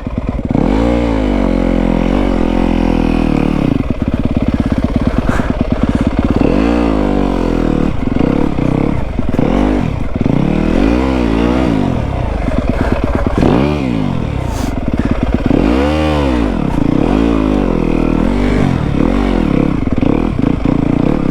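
Yamaha WR250F's single-cylinder four-stroke engine revving up and down over and over, about a dozen throttle blips.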